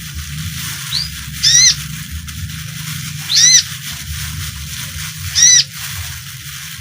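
A konin (sunbird) giving a short, sharp arched call three times, about two seconds apart, with a faint brief rising note before the first. A steady low hum runs underneath.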